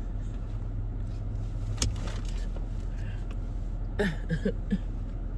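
Car engine running, heard from inside the cabin as a steady low hum, with a single sharp click a little before two seconds in.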